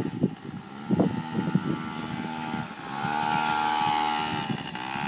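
Small motorbike engine chugging unevenly at low revs, then revving up about three seconds in, holding a steady note, and easing off near the end.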